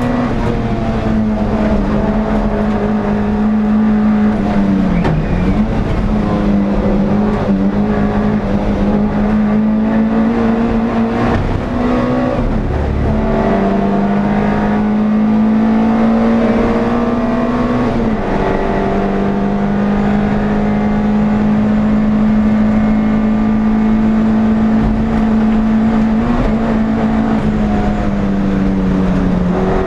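NSU TT's air-cooled rear-mounted four-cylinder engine heard onboard at racing speed, running hard at high revs. Its pitch climbs slowly, drops sharply four times as the car shifts or lifts for corners, and falls away near the end.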